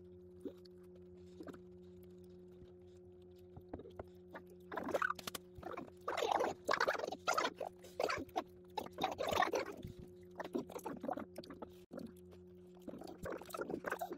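Close-miked mouth sounds of chewing a crumbly streusel-topped cream bread: small wet clicks at first, then dense smacking and crunching, loudest from about five to ten seconds in. A steady faint hum runs underneath.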